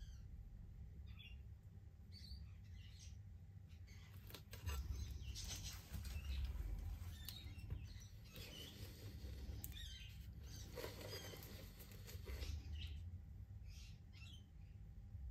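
Faint, scattered bird chirps over a low steady hum, with soft rustling noises through the middle.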